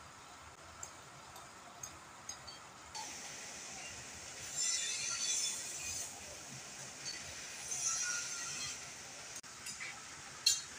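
Rain falling, with small drops ticking now and then. A louder hiss swells from about three seconds in and fades away near the end.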